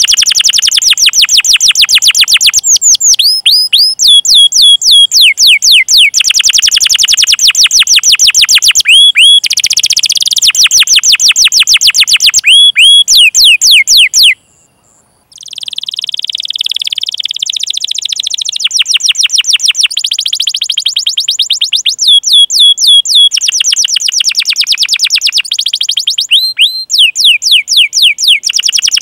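Domestic canary singing long, very fast trills of evenly repeated high notes, broken by sweeping 'cuit cuit' chirps. The song stops for about a second roughly halfway through, then resumes.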